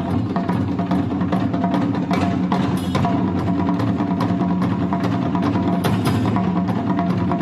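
Traditional Japanese music: drums and other percussion struck in rapid, dense strokes over steady held tones.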